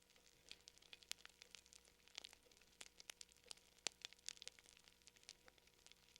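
Fire crackling softly: irregular small pops and snaps over a faint hiss, with one sharper pop about four seconds in.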